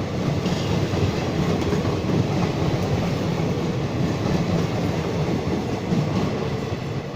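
Diesel-hauled passenger train running along the track: a steady rumble with wheels clattering over the rails.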